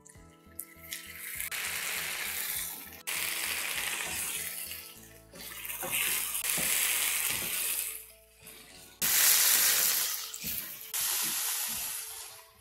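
Onions, tomatoes, red chillies and whole spices sizzling as they roast in a frying pan, heard in several short stretches that start and stop abruptly. Faint background music runs underneath.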